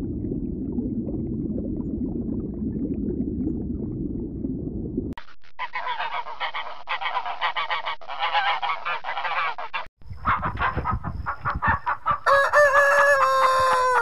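A steady low rumble for about five seconds, then a flock of great egrets calling all at once. After a short break, chickens call, and over the last two seconds a rooster gives one long crow.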